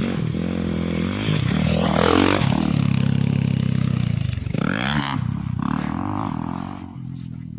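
Motorcycle engine revving: its pitch and loudness climb to a peak about two seconds in, hold, then drop away around five seconds in.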